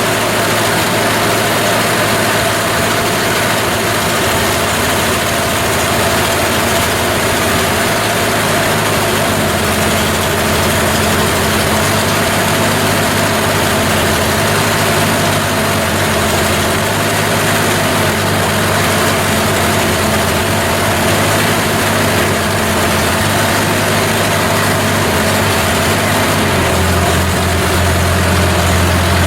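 1956 Ford 600 tractor's four-cylinder gasoline engine running steadily at idle just after a cold start, smoky after nearly flooding. Its tone shifts lower near the end.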